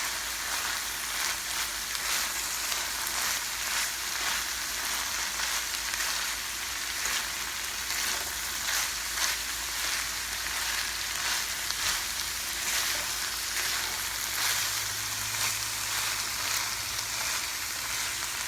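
Ground beef and shredded cabbage sizzling in a frying pan as they are stirred: a steady frying hiss with scattered light clicks and scrapes from the stirring.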